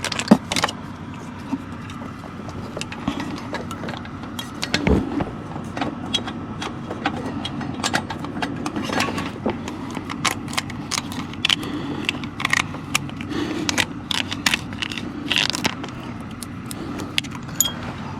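Irregular metallic clinks and scrapes of hand tools and bolts as a car's radiator fan assembly is bolted in and the mounting bolts tightened.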